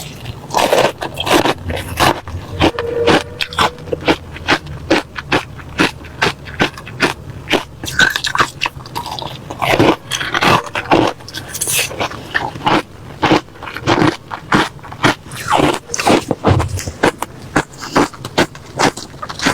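Refrozen crushed ice being bitten and chewed, a steady run of sharp, crunchy cracks, several a second, without a break.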